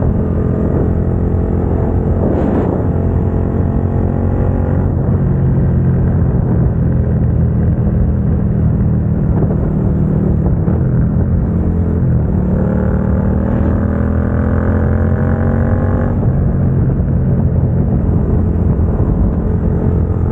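Suzuki SV650's V-twin engine through a Dominator GP aftermarket exhaust, running steadily on the road. About twelve seconds in it rises in pitch as the bike accelerates, then drops back sharply a few seconds later.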